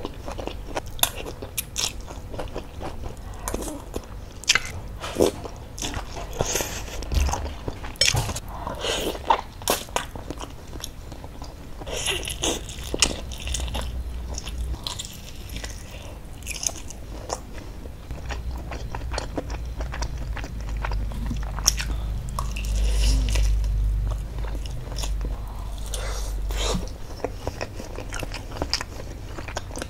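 Close-miked chewing and biting of beef-tendon meatballs (bakso urat), with many small wet clicks and smacks of the mouth.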